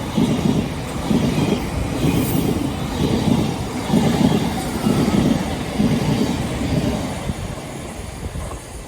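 Train passing, its wheels clattering on the track in a steady rhythm that fades toward the end.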